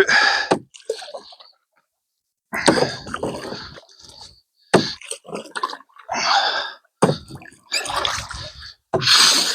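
Canoe paddle strokes: water splashing and dripping off the blade in a run of short separate swishes, about one every second or two.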